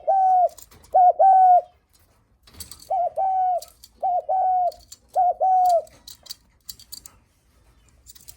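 Spotted dove cooing its 'guest-greeting' coo: about five two-part coos, each a short note then a longer level one, with faint high ticks between them and a pause of about two seconds near the end.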